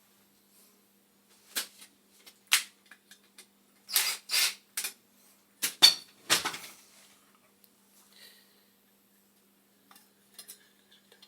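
Metal tools and small parts clinking and clattering as they are handled, in a run of sharp clinks from about a second and a half to seven seconds in, then a few faint ticks near the end.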